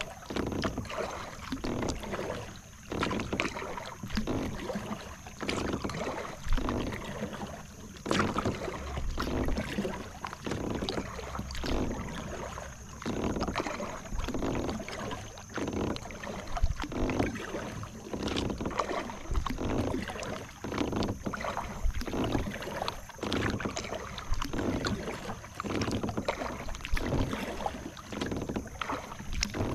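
Kayak paddle strokes: the blades dip and pull through calm water in a steady rhythm of about one stroke a second, each with a splash and drip.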